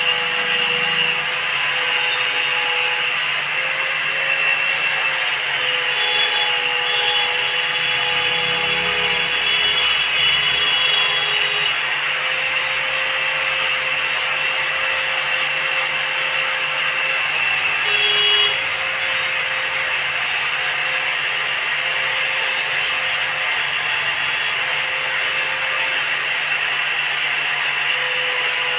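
Steady, continuous tool work noise of scraping and rubbing on a loudspeaker, with a few steady tones running under it.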